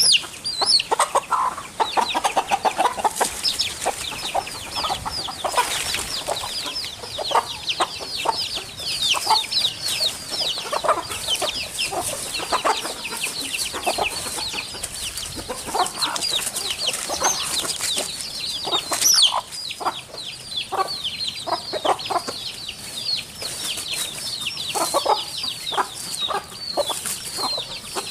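Chickens clucking, with a dense, continuous stream of quick, high, falling chirps over the lower clucks.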